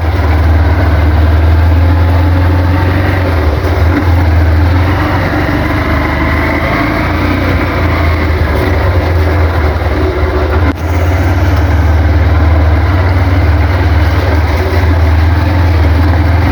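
Motorcycle engine running steadily as the bike rides along, with a steady low drone and a brief dip about eleven seconds in.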